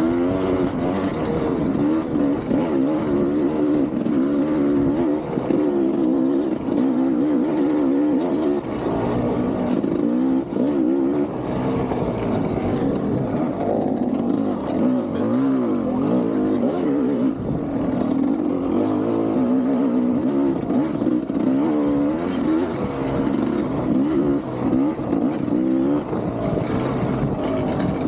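KTM two-stroke enduro dirt bike engine being ridden, its pitch rising and falling constantly as the throttle is worked on and off.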